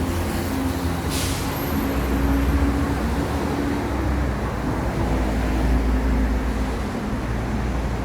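Street traffic: a heavy vehicle's engine running close by with a steady low rumble, and a short hiss about a second in.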